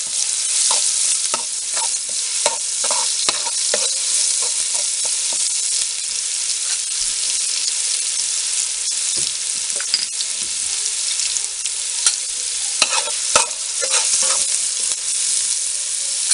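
Onions with ginger, garlic and chili powder sizzling in hot oil in a stainless steel pot, a steady high hiss. A metal spoon stirs them, clicking and scraping against the pot several times in the first few seconds and again near the end.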